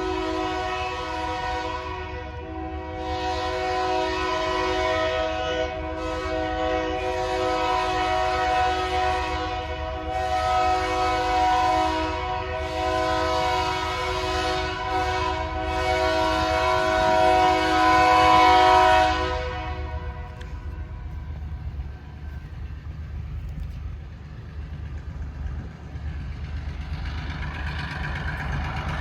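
Locomotive air horn sounding a multi-note chord in long blasts for about twenty seconds, over the low rumble of the diesel engine of an MP15 switcher locomotive. The horn stops about two-thirds of the way in, leaving the engine rumble.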